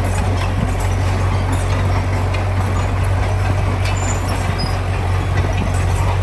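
Heavy diesel engine of earthmoving machinery running steadily with a deep, constant hum, with scattered light clanks and rattles over it.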